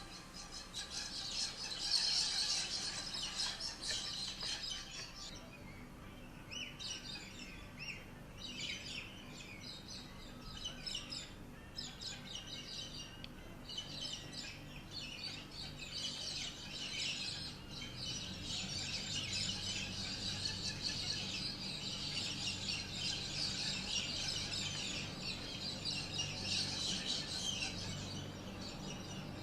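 Many birds chirping and calling continuously and overlapping, over a faint low steady hum.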